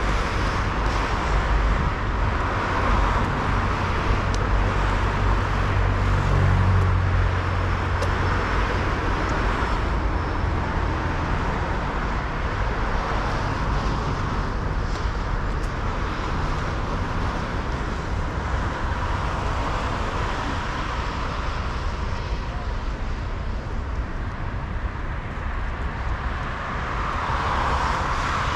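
Steady city street traffic noise as cars pass. A low rumble swells about six to seven seconds in, and another passing vehicle swells near the end.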